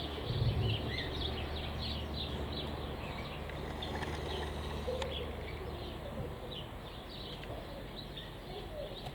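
Aviary birds chirping, many short high calls scattered throughout, over a steady low background rumble.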